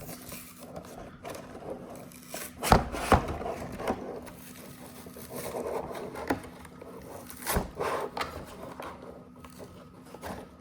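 Toy packaging being worked open by hand: rubbing and scraping, with a few sharp snaps, the loudest about three seconds in.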